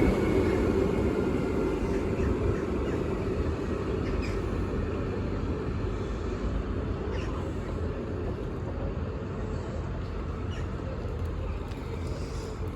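SJ X40 double-deck electric multiple units rolling into the station and slowing, their running noise fading gradually, with a few faint clicks from the wheels on the track.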